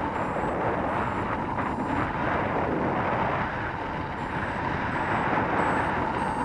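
Strong wind rushing over the microphone in paragliding flight, a steady loud buffeting noise.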